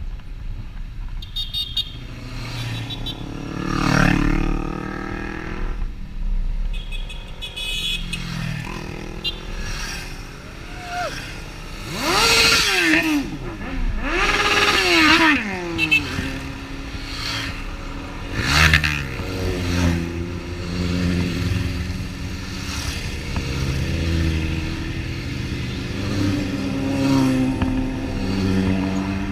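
Motorcycle engines running and revving in a group ride, with several swells where bikes rev hard or go past, their pitch rising and falling, the loudest about twelve to fifteen seconds in.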